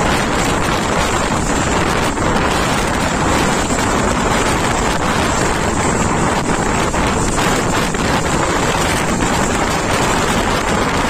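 Strong wind buffeting the microphone held out of a moving passenger train, over the steady running noise of the coach on the track.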